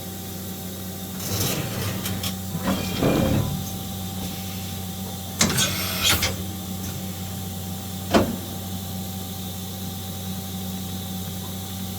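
Matsuura MX-520's 60-station automatic tool changer swapping tools over the machine's steady running hum: a few whirring, clunking movements, ending in a sharp clank about eight seconds in.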